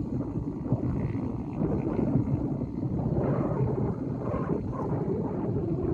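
Low, steady rumbling noise of wind buffeting an outdoor microphone.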